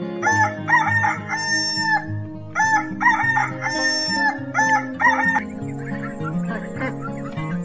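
Rooster crowing twice, each crow a long cock-a-doodle-doo ending in a held note, over background music.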